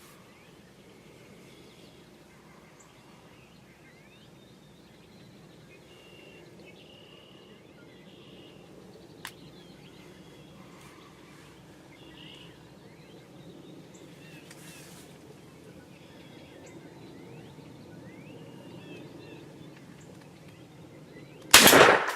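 Faint outdoor background with scattered short bird chirps, then near the end a single loud shotgun blast: a turkey shotgun fired once at a gobbler.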